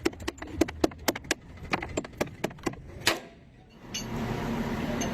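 Hand tools clinking and clicking against metal parts in quick, irregular strokes, stopping about three seconds in. About four seconds in, a steady hum with background noise begins abruptly.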